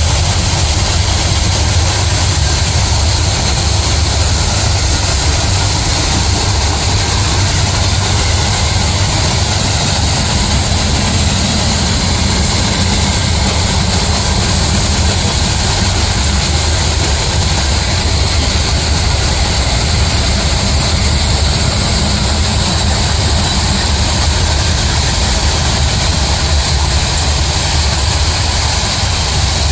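Heavy engine running steadily: a loud, unbroken low rumble with a constant hiss of noise over it.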